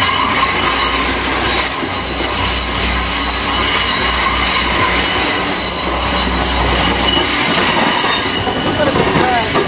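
GWR Class 802 bi-mode train running slowly past along the platform, with a steady high-pitched whine and squeal over a low rumble. The rumble drops away about seven and a half seconds in.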